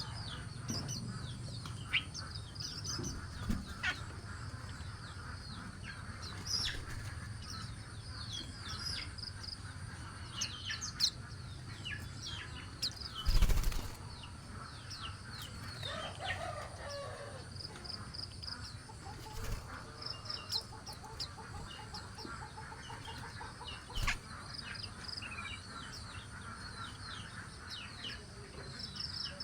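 Birds feeding: scattered short high chirps, with a sudden flurry of wing flaps about thirteen seconds in.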